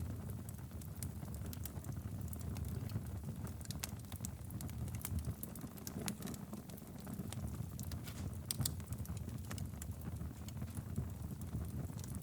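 Wood fire burning steadily in a fireplace: a low rumble of flames with frequent irregular crackles and pops.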